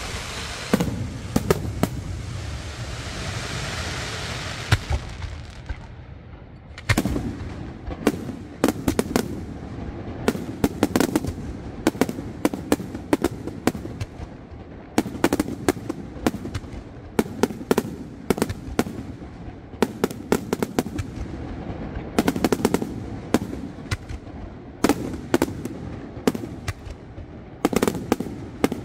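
Aerial fireworks display: for the first few seconds a steady hiss with crackling, then a long run of sharp shell bursts in irregular clusters, sometimes several a second, each followed by a short rumbling echo.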